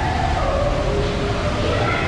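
Steady rushing water with raised voices calling out faintly over it, a few short held calls.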